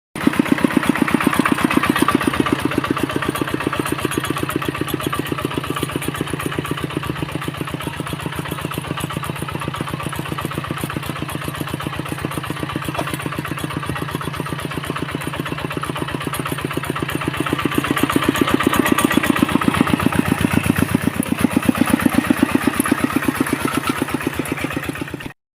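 Small engine running steadily with a fast, even firing beat, growing louder for a few seconds about two-thirds of the way through.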